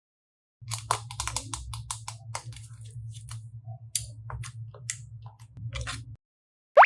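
Slime being squeezed and worked by hand: rapid, irregular clicking and crackling over a low hum that cuts off suddenly. Near the end comes a short sound rising steeply in pitch.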